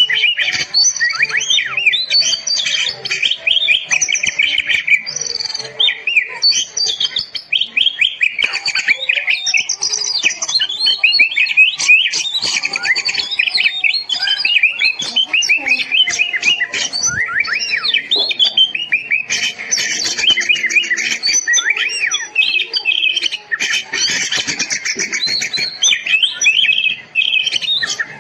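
Oriental magpie-robin in full, vigorous song: a rapid, unbroken stream of varied whistles, chirps and trills.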